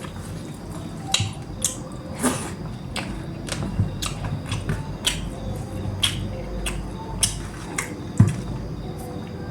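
Close-up mukbang eating sounds: irregular sharp smacks and clicks of lips and mouth, with wet chewing, while eating free-range (desi) chicken curry.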